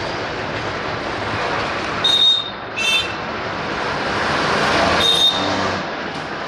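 Bangladesh Railway's Benapole Express passenger train running on curved track, a steady rumble of wheels on rail as it draws away. Three brief high squeals stand out about two, three and five seconds in.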